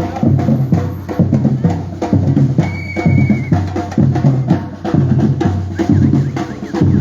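Batucada percussion group playing a samba rhythm on drums, with deep bass drum beats under fast, dense strikes. A brief high steady tone sounds about three seconds in.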